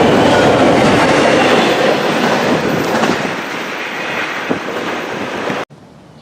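Freight train rolling past: steady rumble and rattle of wheels on the rails, easing off gradually from about two seconds in, then cutting off abruptly near the end.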